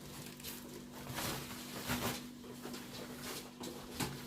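Soft rustling and light knocks from parts and packaging being handled, several separate bursts, over a faint steady low hum.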